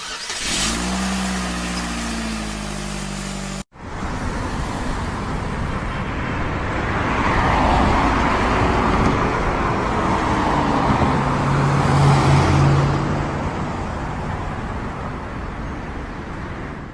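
Motor vehicle sounds. An engine runs with its pitch falling for a few seconds and cuts off abruptly. Then the road noise of a vehicle driving by swells up, peaks midway and slowly fades away.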